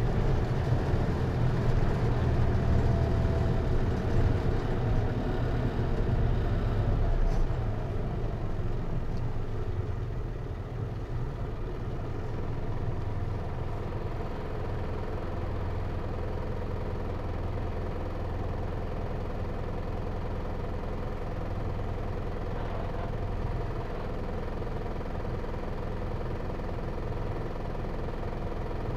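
Inside a Hino Liesse microbus, its J05C four-cylinder diesel with automatic transmission running. The engine is louder at first, eases off about eight to ten seconds in, then settles into a steady idle.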